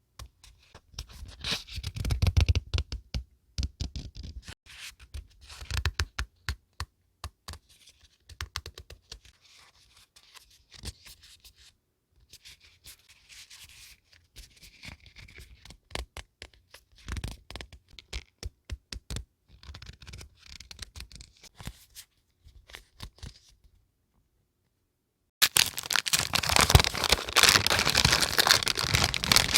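Scrapbooking paper goods handled close to the microphone: scattered taps, rustles and scratches. After a short silence near the end comes a louder, continuous stretch of tearing and crinkling.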